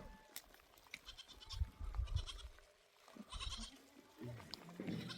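Goats bleating: several short, high, wavering bleats, one after another.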